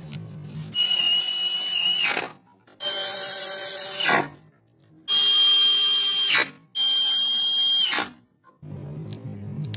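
A handheld power tool runs in four short bursts, each about a second and a half long, with a steady high whine. At the end of each burst the pitch drops quickly as the tool spins down on trigger release.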